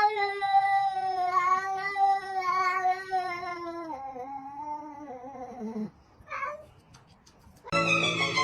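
A cat's long, drawn-out yowl lasting about six seconds, its pitch sliding down toward the end, then a short faint call. Music starts near the end.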